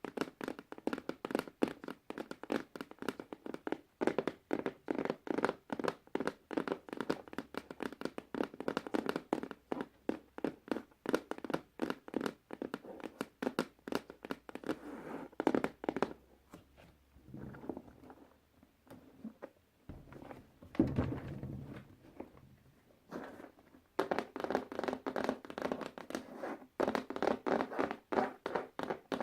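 Puzzle pieces being handled in a rapid run of light clicks and taps. The clicking thins out in the middle, with a duller thump about two-thirds through, then picks up again.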